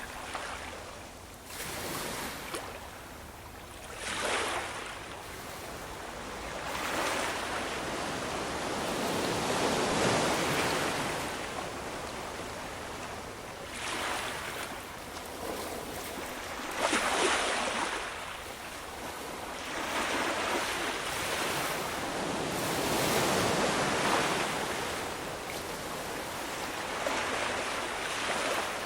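Ocean waves breaking and washing ashore in repeated surges, each swelling and falling away over a few seconds.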